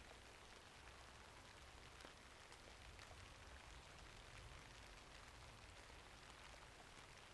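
Faint steady rainfall with many small sharp clicks scattered through it, the crackle of a wood fire in a fireplace.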